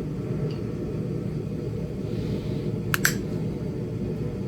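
Two sharp clicks close together about three seconds in: a steel knapping tool striking a small Flint Ridge chert point while trying to knock off a stubborn chunk. A steady low hum runs underneath.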